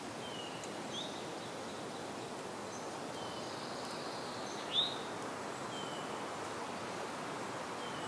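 Wild songbirds giving scattered short, high chirps and whistles, with one louder, sharper call about five seconds in, over a steady rustling hiss.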